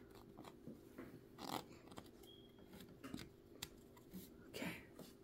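Faint handling sounds of work on a vintage Kenmore sewing machine: scattered light clicks and two short scrapes, about a second and a half in and near the end, over a low steady hum.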